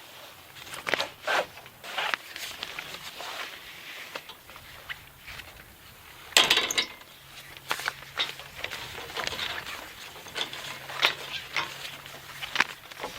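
Irregular footsteps and scuffing, rustling handling noises, loudest in a cluster about six and a half seconds in, with a faint steady low hum starting about seven seconds in.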